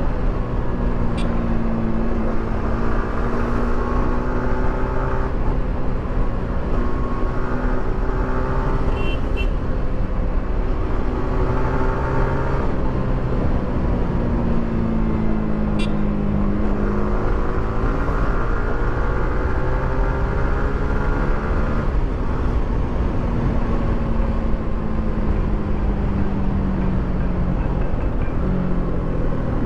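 Yamaha R15 V3 motorcycle's single-cylinder engine through its stock exhaust, heard while riding: the pitch climbs and drops several times as the rider accelerates and changes gear.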